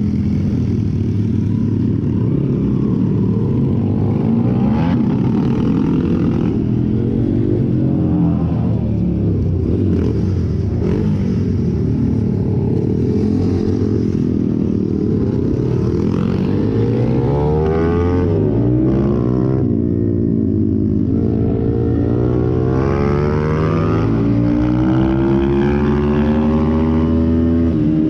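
Pit bike engine running as it is ridden, its pitch rising and falling again and again as the throttle is opened and closed.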